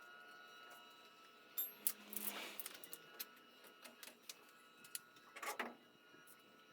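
Faint, scattered metallic clicks and clanks of hand tools and parts being handled during car dismantling, with short scraping sounds about two seconds in and again near the end.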